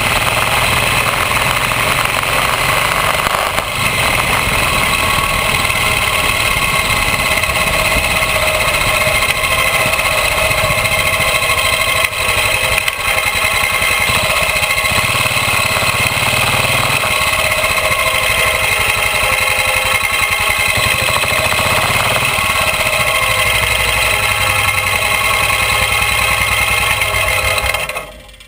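Royal Enfield motorcycle engine running steadily, then cutting off suddenly near the end.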